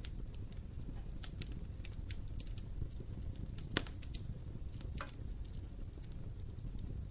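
Wood fire burning in a fireplace: a steady low rumble of the flames with irregular sharp crackles and pops from the burning logs, the loudest pops about four and five seconds in.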